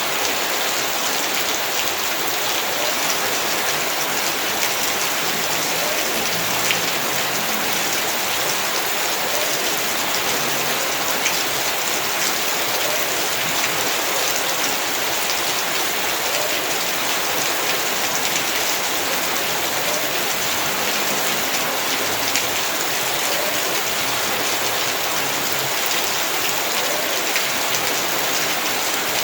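Heavy rain falling steadily on the ground and surfaces, with small scattered drop impacts.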